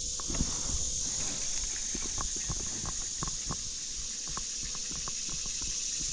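Irregular small water drips and splashes, over a steady high-pitched buzz of insects.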